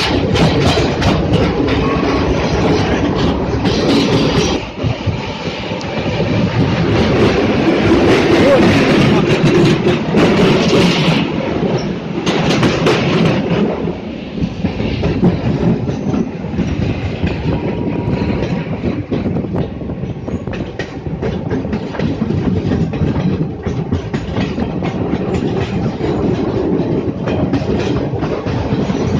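Train running along the track, its wheels clattering over the rail joints.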